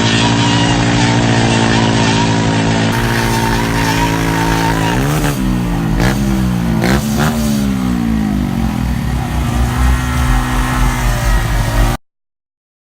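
A vehicle engine running steadily, then blipped several times in quick succession so its revs rise and fall, before the sound cuts off abruptly.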